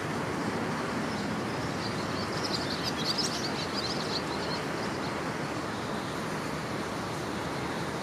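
A small bird chirping quickly and high for about two seconds, starting about two seconds in, over a steady outdoor background hiss.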